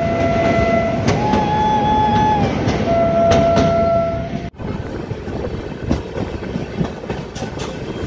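Locomotive horn sounding three long notes, low, then higher, then low again, over the rumble of the moving train. About four and a half seconds in the sound cuts off abruptly. Then only the rolling noise of the coaches at speed is left, with clicks of the wheels over rail joints.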